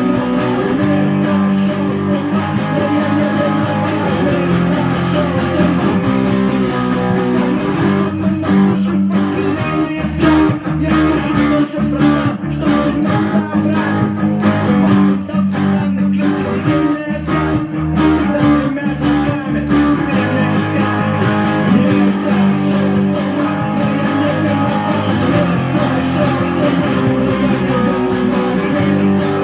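Guitar playing an instrumental song arrangement, with chords and plucked notes ringing continuously. The note attacks become sharper and more frequent from about a third of the way in until about two-thirds through.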